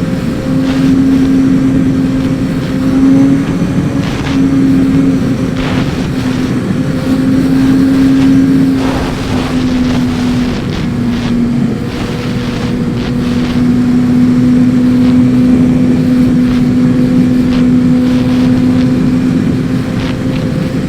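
Suzuki GSX-R sport bike with a full Akrapovic exhaust, its engine running at a steady cruise under loud wind rush over the microphone. The engine note dips slightly around the middle, then holds steady again.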